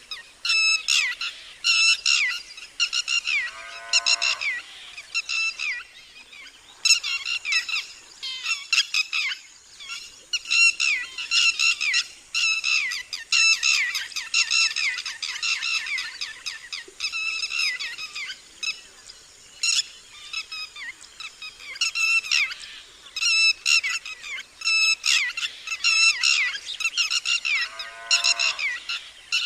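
Red-wattled lapwings giving their loud, sharp alarm calls, quick runs of repeated shrill notes with short pauses between them. Twice, about four seconds in and again near the end, a lower call sweeps up in pitch underneath them.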